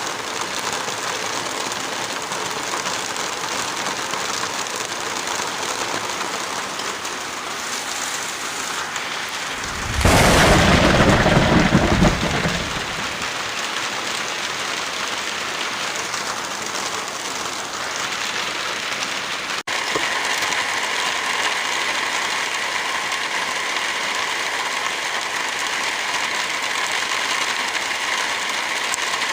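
Heavy rain falling steadily, with a loud rumble of thunder about ten seconds in lasting a couple of seconds. Near the middle the rain cuts out for an instant and resumes with a slightly different, hissier texture.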